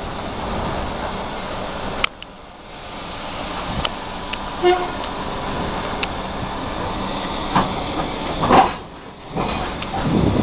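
ED4M electric multiple-unit train passing through a station: a steady rumble of wheels on rail, with a few sharp clicks.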